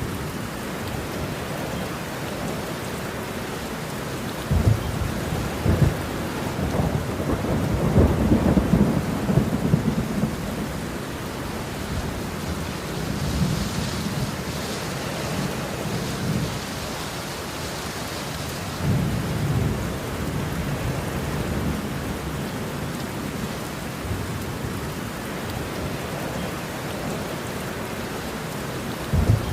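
Steady rain with thunder rumbling low, swelling loudest about a third of the way in and again briefly past the middle.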